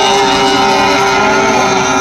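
Racing powerboat engine running steadily at one pitch during its pre-race warm-up.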